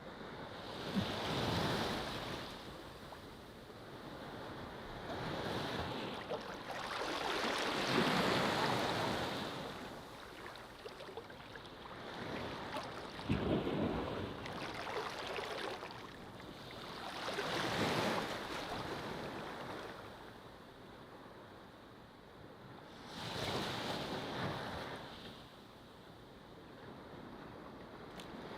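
Ocean waves breaking and washing up a beach: five surges, each swelling and fading, about five seconds apart.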